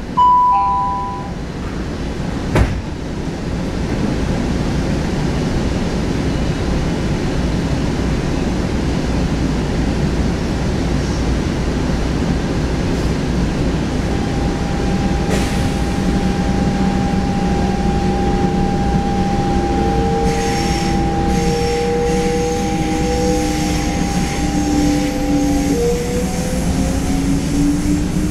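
SuperVia electric suburban train heard from on board as it pulls away, with a steady rumble. There is a single sharp knock a couple of seconds in. From about halfway, whining tones glide and shift in pitch as the train picks up speed, with a faint high squeal joining them later.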